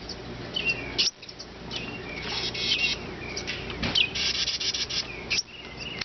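Finches chirping: short, high calls repeated in quick runs, some sweeping downward. The parent finches are agitated at people near their fledgling.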